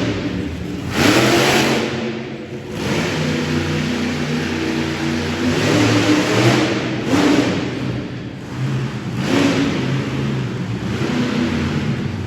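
Monster truck engine revving hard in repeated surges, its pitch climbing and falling with several loud bursts of throttle.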